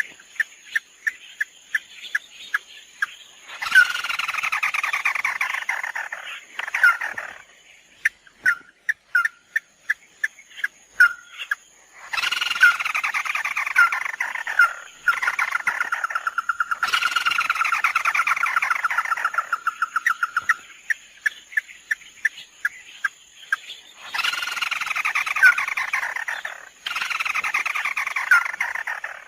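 Recorded calls of the bird that Vietnamese trappers call 'mắt đỏ', played as a trapping lure. Short sharp single notes repeat about twice a second, broken five times by a loud rattling trill that falls in pitch over two to three seconds.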